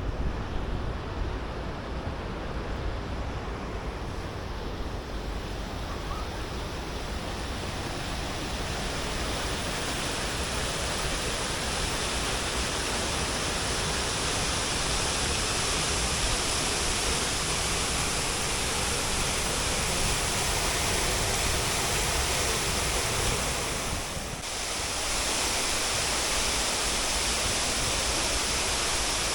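Steady rush of falling water from a large cascade fountain, growing louder over the first several seconds, with a brief dip about 24 seconds in.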